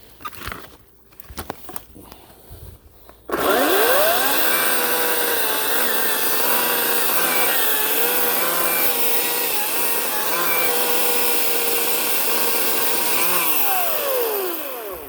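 Ryobi 18-inch battery electric chainsaw starts about three seconds in, its motor whine rising quickly to full speed. The pitch then dips and wavers as the chain bites into birch wood, and the motor winds down near the end.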